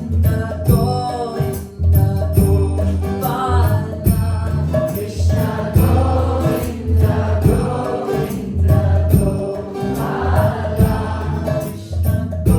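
Upbeat Krishna kirtan: voices singing a devotional chant over a steady, pulsing deep beat, with frequent sharp percussive clicks.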